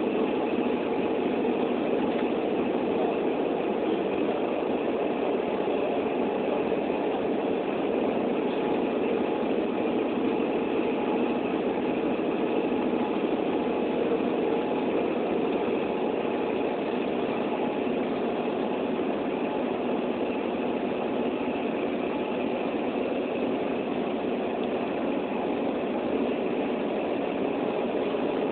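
Steady rain with a continuous low hum underneath, unchanging throughout.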